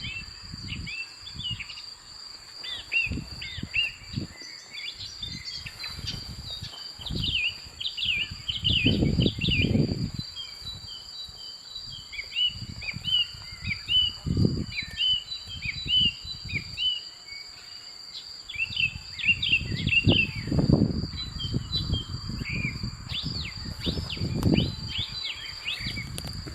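Many small birds chirping in quick, short rising and falling notes, over a steady, unbroken high-pitched insect drone. Several loud, low rumbling bursts come and go over them.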